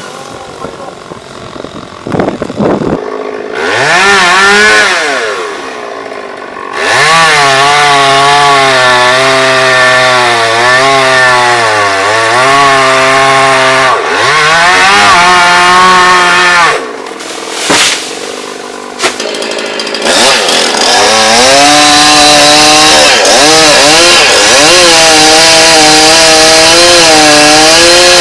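Two-stroke chainsaw running at full throttle and cutting, its engine pitch wavering and dipping as the chain bites under load. It drops back toward idle twice, about six seconds in and again for a few seconds past the middle, before revving up again.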